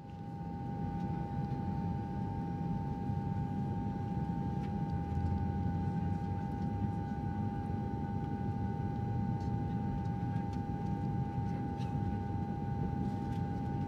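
Airliner cabin noise: a steady low drone of engines and air flow with a constant high whine over it.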